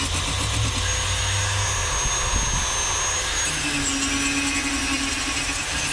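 WEN rotary tool spinning at high speed with a diamond disc, grinding: a steady high whine over a grinding hiss, its tone shifting a little past halfway.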